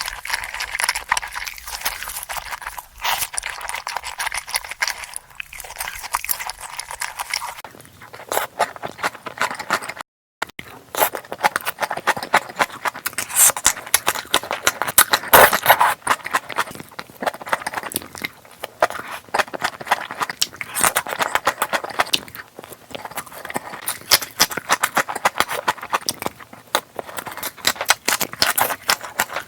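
Close-miked eating sounds: chewing and crunching, a dense run of clicks and crackles. Near ten seconds in it drops out briefly as one clip cuts to the next.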